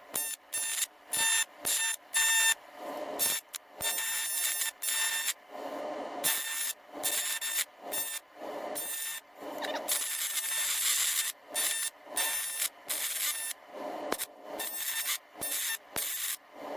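TIG welding arc on a cast iron engine block, buzzing with a steady high tone and hiss each time the arc is struck, in many short bursts of a second or less, with a longer unbroken run about ten seconds in.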